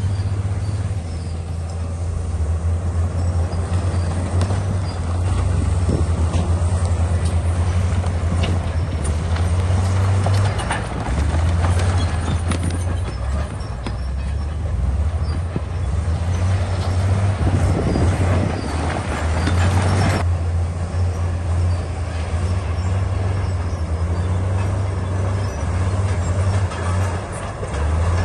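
Komatsu D68E crawler bulldozer's diesel engine running under load, its low drone swelling and easing, with scattered clanks and scrapes from the tracks and the rock it pushes.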